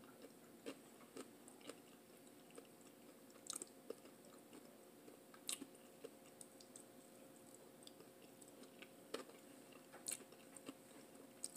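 Faint close-miked chewing of fried catfish: scattered soft mouth clicks and smacks every second or so, over a low steady hum.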